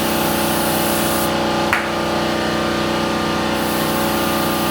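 Air spray gun hissing as primer is sprayed, in two bursts with short breaks between them, over a steady machine hum. A sharp click comes about a second and three-quarters in.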